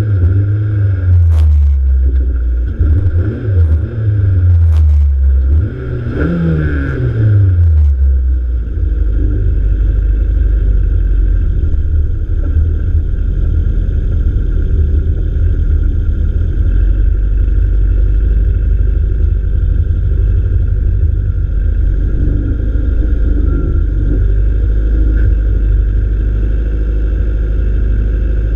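Integra car engine revving up and down over the first several seconds, with a few sharp cracks, then settling into a steady low drone.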